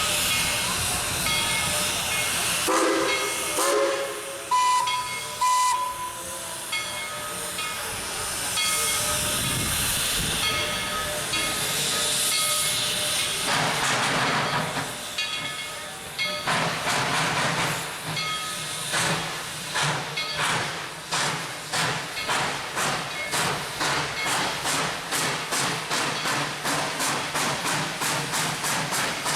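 Steam locomotive hissing steam, with a short whistle a few seconds in. It then starts off, its exhaust chuffing at about two a second and quickening toward the end.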